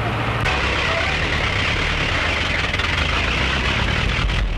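A motor vehicle's engine running steadily, with a constant low hum under a broad, even noise.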